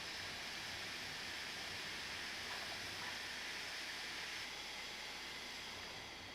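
Steady hiss that eases off about four and a half seconds in.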